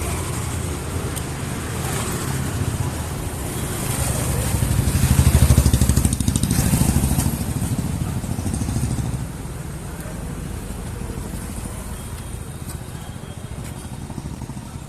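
A motor vehicle engine, most like a motorcycle, passing close by: it grows louder to a peak about five seconds in and fades away over the next few seconds, over steady traffic background.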